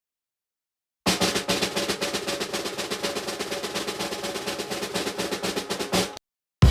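Snare drum roll, a rapid even run of strokes starting about a second in and lasting about five seconds, closing on one louder stroke. A cymbal crash hits right at the end.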